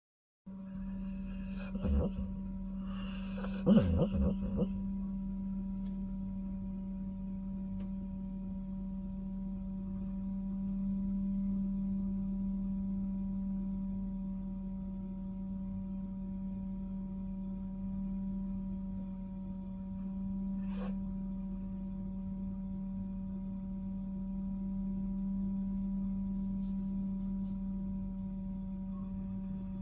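Steady ringing drone at several fixed pitches, swelling and easing slowly, with a few knocks and rustles in the first five seconds and a single click about twenty seconds in.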